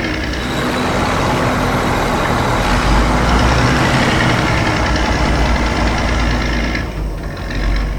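Heavy construction vehicle's engine running steadily with a low rumble, easing off about seven seconds in.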